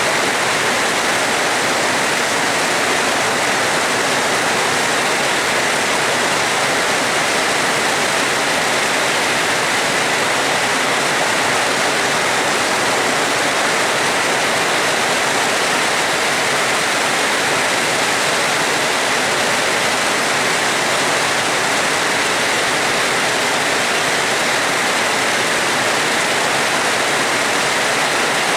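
Rain falling steadily as an even, unbroken hiss that neither rises nor falls.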